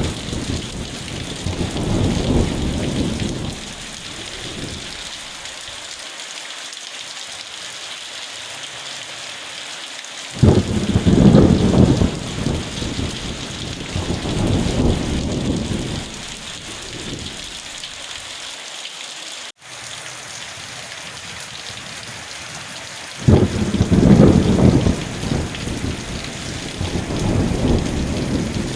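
Steady rain falling, with rolls of thunder: a deep rumble fading out in the first few seconds, another breaking in abruptly about ten seconds in and rolling on for several seconds, and a third starting about two-thirds of the way through.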